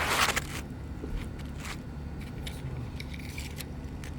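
Asphalt roof shingles being handled: a short scraping rustle right at the start, then scattered small clicks and ticks.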